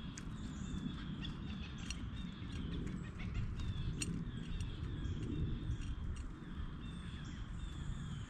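Small birds chirping: many short, downward-sliding chirps repeated over and over, with a few sharp ticks among them, above a steady low rumble.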